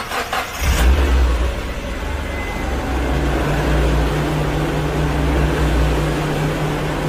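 Car engine starting about half a second in, loudest just after it catches, then running steadily.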